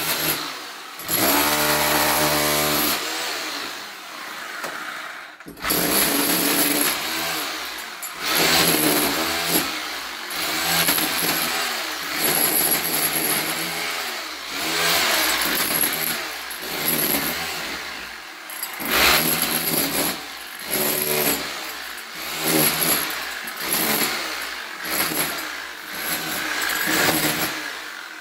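Handheld electric power tool run in repeated bursts, its motor starting and easing off every second or two while it works into the wall.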